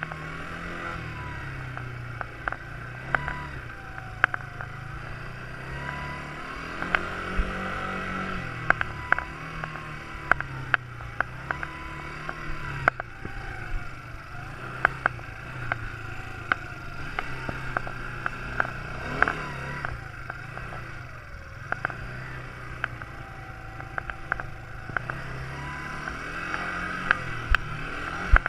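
Quad bike engine running, its pitch rising and falling over and over as the throttle opens and closes, with frequent sharp clicks and knocks throughout.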